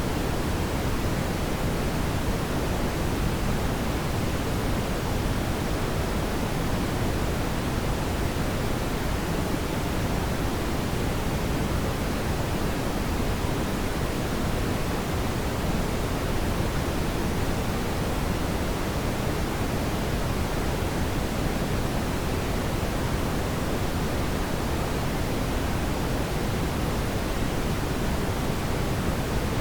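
Steady brown noise: an even, deep rushing hiss, strongest in the low end and thinning toward the highs, unchanging throughout.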